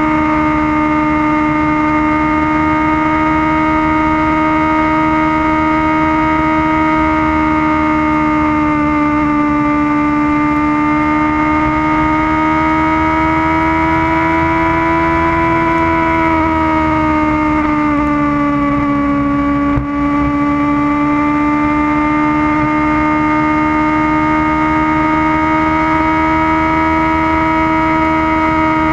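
Kawasaki ZX-6R's inline-four engine running at high, steady revs on the move, a sustained note that rises a little and then sags back past the middle. There is a momentary dip in level about two-thirds of the way through.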